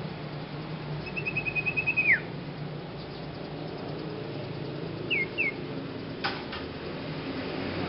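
A young sirpu bird calling: a quick trill of about ten short notes that ends in a falling whistle, then two short downward notes a few seconds later. Two sharp clicks follow.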